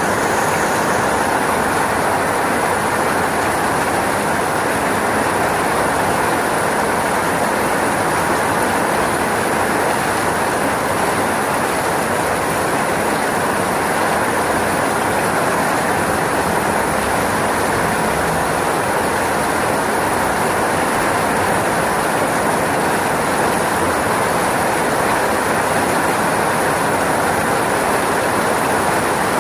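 Steady rainfall: an even, unbroken hiss of rain at a constant level.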